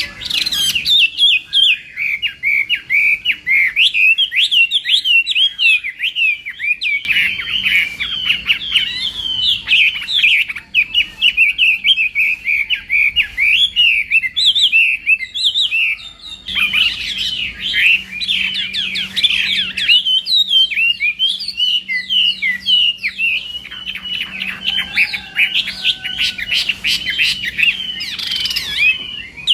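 Chinese hwamei singing a long, fast, nearly unbroken song of quick rising and falling notes, pausing briefly about sixteen seconds in and again near the end.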